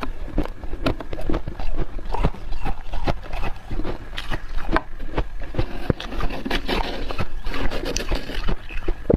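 Freezer frost being dug with a spoon and chewed: a steady run of irregular, squeaky crunches, thickest around seven to eight seconds in.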